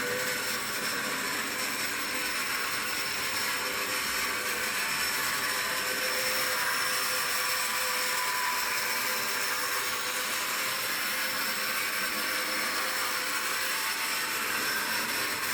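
Vintage COX HO-scale electric model locomotive running steadily on its track: an even, high whirring of its small motor and wheels.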